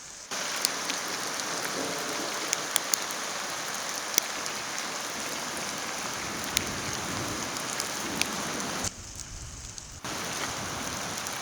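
Steady rain hissing, with scattered sharp taps of drops landing close by; the hiss drops away for about a second around nine seconds in.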